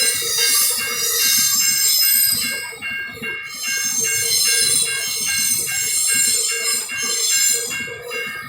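Empty iron-ore hopper wagons rolling past with a high, many-toned squeal from the wheels on the rails. A ringing repeats about two to three times a second along with it.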